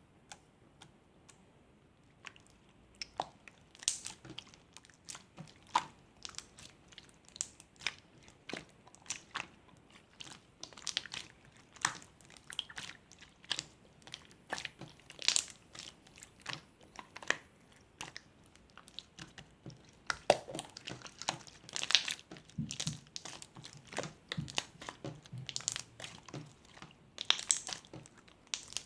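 Slime being squished, poked and stretched by hand, giving off irregular sticky clicks, pops and crackles, several a second.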